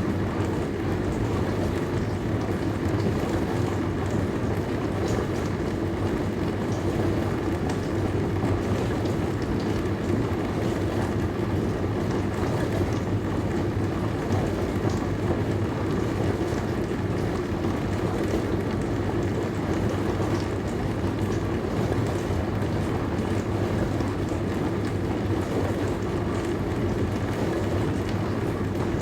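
Dishwasher running its wash cycle: a steady low hum from the pump motor under an even hiss of water spraying inside the tub.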